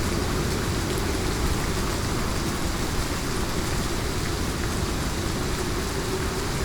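Heavy rain falling steadily, a dense even hiss with a strong low rumble beneath it.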